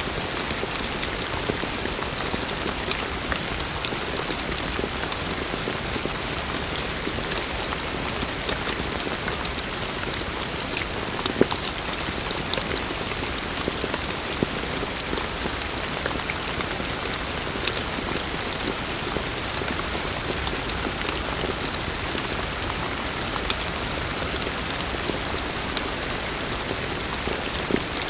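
Heavy rain falling steadily, a dense hiss of water with many separate drops tapping on surfaces and a few louder drip hits.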